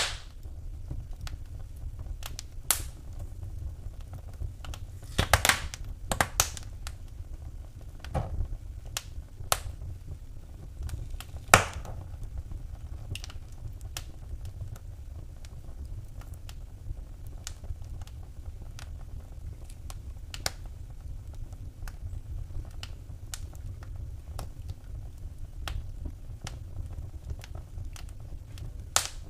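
Wood fire burning in a fireplace: irregular crackles and sharp pops over a steady low rumble of the flames, with a cluster of louder pops about five seconds in and a single loud pop near twelve seconds.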